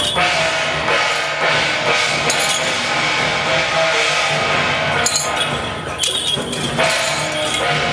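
Loud procession music with drums and clashing cymbals over held steady tones.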